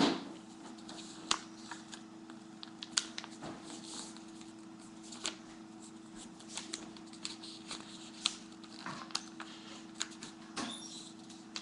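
A sheet of paper being folded and creased by hand into a paper airplane: scattered crinkles and taps, over a steady low hum.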